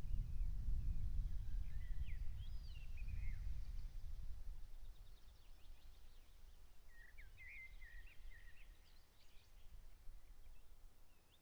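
Birds singing in short, quickly changing phrases, once about two seconds in and again about seven seconds in, over a low rumble that dies away about halfway through.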